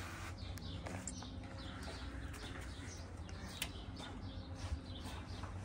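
Faint birds chirping in many short, quick calls over a steady low hum, with a faint click or two.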